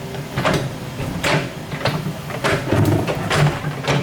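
Excavator running with a steady low engine hum, broken by sharp mechanical clanks and squeaks that repeat about every half second to second.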